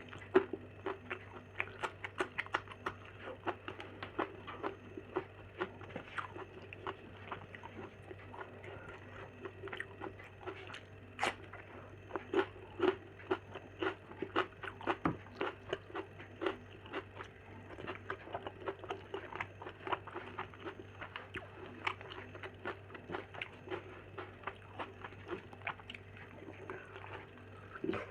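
Close-miked eating: a person biting and chewing food, with irregular wet clicks and crunches several times a second, over a steady low hum.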